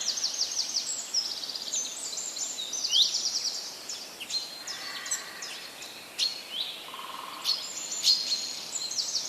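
Several songbirds singing at once: rapid chirps, fast trills and quick downslurred whistles, high-pitched and overlapping, over a light steady outdoor hiss. A short low buzzy call comes about seven seconds in.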